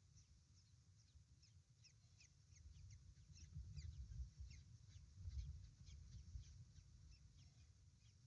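Faint high chirps from small birds, short and quickly repeated, with a low rumble around the middle as the brooding female kestrel shifts about in the wooden nest box.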